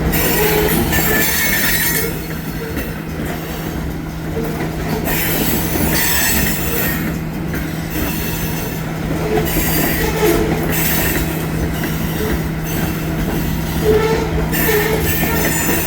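Freight train rolling past at close range, steel wheels rumbling on the rails with intermittent high-pitched wheel squeal that comes and goes every second or two.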